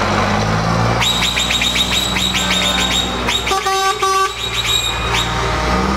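Truck engines running low and steady while horns sound. A high, rapidly pulsing tone runs for about four seconds, and in the middle a horn gives two short toots.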